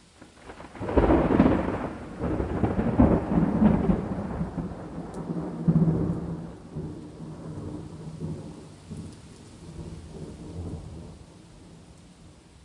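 A roll of thunder over steady rain: it builds about half a second in, peaks in several loud surges over the next few seconds, then rumbles on more quietly and fades away near the end, leaving the faint rain hiss.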